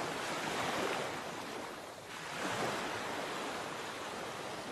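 Rough sea surf: waves breaking and washing in. One surge fades about two seconds in and the next swells up right after.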